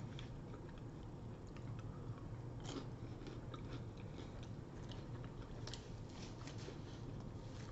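Close-mic chewing of crunchy fried onion rings, with crisp crackling bites scattered through, the sharpest about three seconds in and again near six seconds. A faint steady low hum lies underneath.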